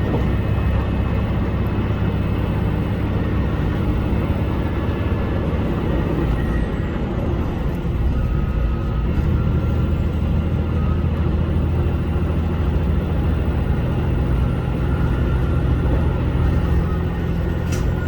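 HOT7000 series diesel railcar running: a steady low engine drone with running noise that holds an even level throughout.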